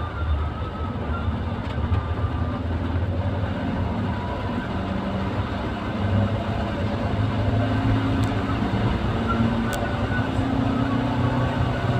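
Vehicle on the move: a steady low engine hum whose pitch drifts up and down, under constant road noise.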